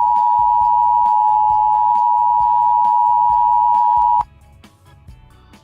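A loud, steady electronic beep, a single pure tone held for about four seconds that cuts off suddenly, over quiet background music with a regular beat.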